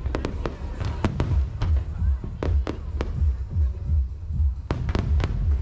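Aerial fireworks display: a rapid, uneven series of sharp bangs and cracks from bursting shells over a continuous deep rumble, with a dense cluster of reports near the end.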